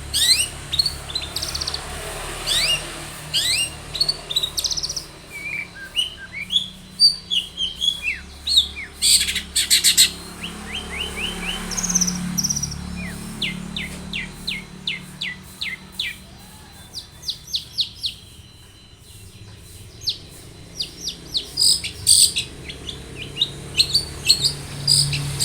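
Long-tailed shrike (cendet) singing a fast, varied song of short, sharply falling whistled notes mixed with quick chattering runs of clipped notes, easing off briefly past the middle before picking up again.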